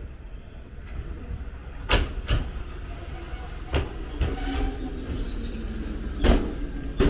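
Jōshin Dentetsu electric train running on the rails: a steady low rumble with several sharp, uneven clanks of the wheels. A thin, high wheel squeal begins about five seconds in.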